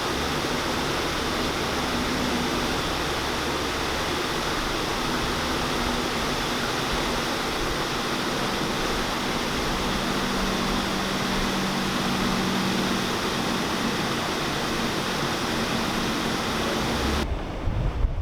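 Water rushing steadily through the open paddles of a canal lock, a continuous roar, with a faint low hum beneath it. It cuts off suddenly near the end.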